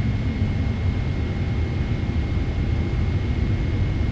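Steady low cabin rumble of a Boeing 777-300ER on the ground before takeoff, its GE90 engines at idle, with a faint thin steady whine above it.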